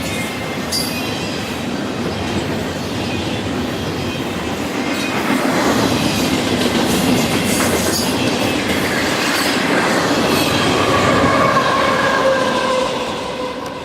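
A freight train's intermodal container cars roll past with wheel clatter. Then the diesel pusher locomotive at the tail of the train passes close by: the sound grows louder, its engine tones drop slightly in pitch as it goes by, and it fades near the end.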